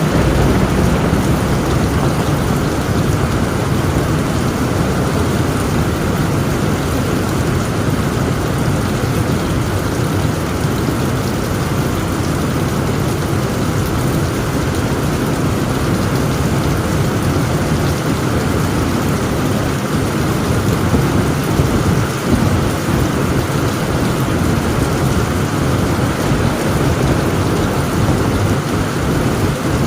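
Heavy rain pouring steadily onto a tent roof, with a low thunder rumble underneath and a slight swell a little past the middle.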